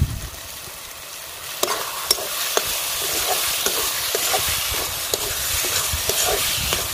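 Spiced onion-tomato masala paste frying in mustard oil in a kadhai, sizzling as a spatula stirs and scrapes through it. Short clicks and scrapes of the spatula against the pan recur throughout. The sizzle picks up about a second and a half in, once the stirring starts.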